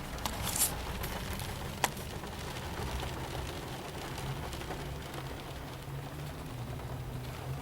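Steady patter of light rain with a low traffic rumble underneath, and a single sharp click about two seconds in.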